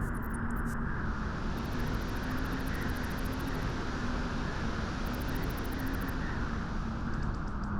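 Wind blowing steadily, a constant low rushing noise with no gusts.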